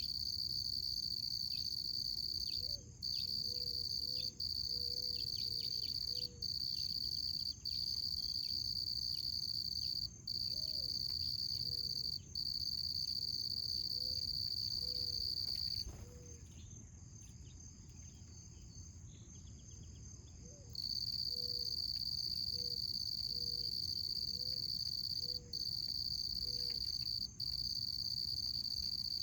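Crickets giving a steady, high continuous trill with brief breaks every second or two, falling silent for about five seconds past the middle before resuming.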